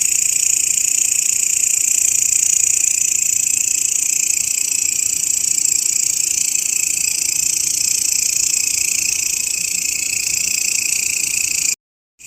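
Belalang (grasshopper) stridulating in a steady, dense, high buzz. It breaks off completely for about half a second near the end.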